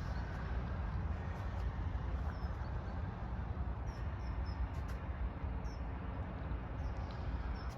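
Steady low rumble of outdoor background noise with a few faint, short, falling chirps from small birds.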